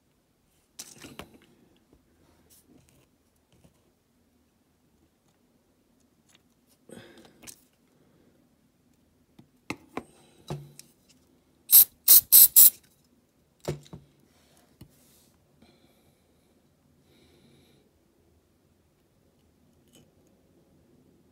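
Sharp clicks and light clattering of small hand tools and parts while fitting the cabin of a die-cast toy van, with a quick run of four loud clicks about halfway through.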